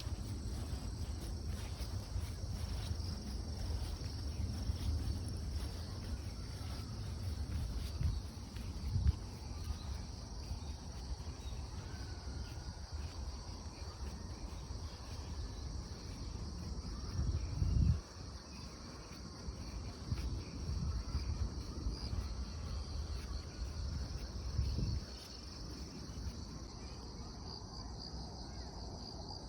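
Insects, crickets by the sound of the tags, trilling steadily in a high chorus. Under it runs a low rumble with a few thumps, the loudest a little past the middle.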